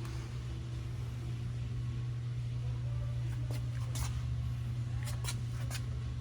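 A steady low hum with a handful of short, light clicks in the second half.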